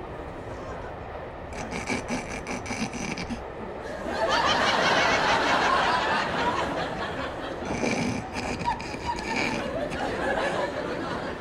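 Audience laughter, swelling to its loudest about four seconds in and tailing off over the next few seconds.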